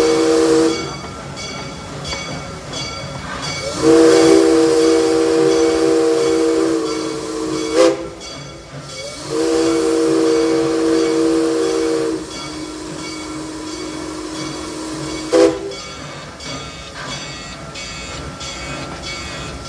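A park railroad locomotive's chime whistle, several notes sounding together, blowing twice long after the end of an earlier blast. In the second long blast the upper notes drop out partway, leaving one low note, and each long blast ends with a sharp pop. A steady hiss fills the gaps.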